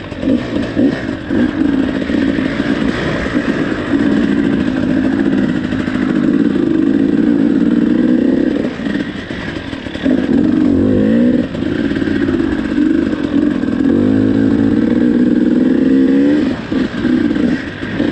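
KTM 300 two-stroke dirt bike engine running under load on a rough trail, revving up and easing off the throttle repeatedly; the revs drop about halfway and again near the end, with rising sweeps of revs in between.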